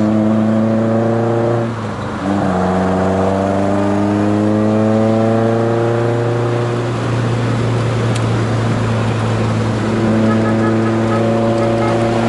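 Volkswagen Scirocco Mk1 GT's four-cylinder engine heard from inside the cabin under hard acceleration: the pitch climbs, drops briefly with a gearshift about two seconds in, and climbs again for several seconds. The engine note then falls away for about three seconds and comes back at a steady pitch near the end.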